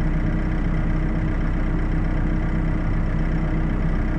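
Heavy diesel engine idling steadily, with no change in pitch or level.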